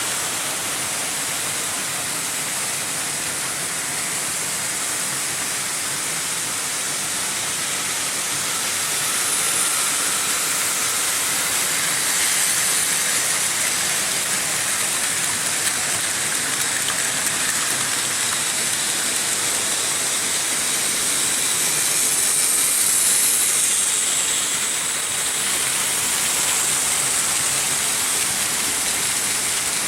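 Märklin H0 model trains running on pressed-steel M-track: a steady metallic rolling rattle and hiss from wheels and motors. It swells gently a few times.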